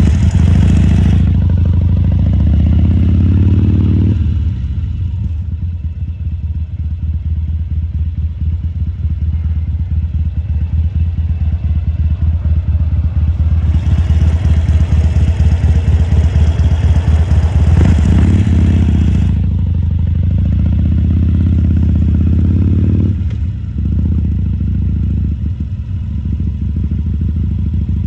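Harley-Davidson Sportster 1200 Custom's air-cooled V-twin running with an uneven, pulsing exhaust beat. Its note climbs twice, near the start and again about two-thirds of the way in, as it picks up revs.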